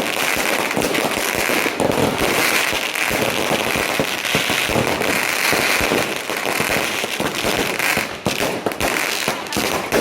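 Firecrackers going off in a dense, continuous crackle of rapid bangs with no pause.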